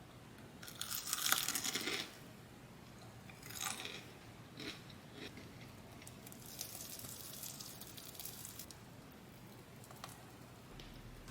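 Close-miked biting and crunching of crisp food, mukbang style: one big crunchy bite about a second in, then several shorter crunches and a longer stretch of crackly chewing.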